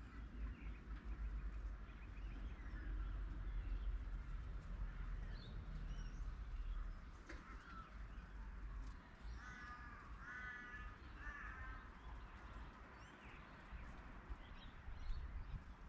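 Wild birds calling: scattered short chirps throughout, and about ten seconds in, three harsh calls in quick succession. A steady low rumble lies underneath.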